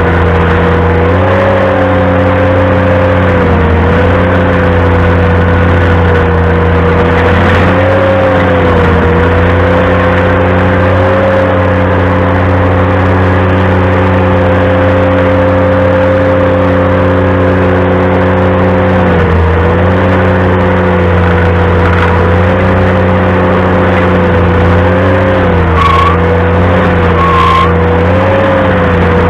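Ventrac compact tractor running a stump grinder at steady high speed, its engine note dipping briefly several times. Two short squeaks come near the end.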